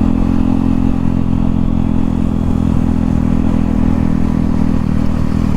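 KTM Duke 390's single-cylinder engine running with its exhaust removed, held at a steady speed with no revving.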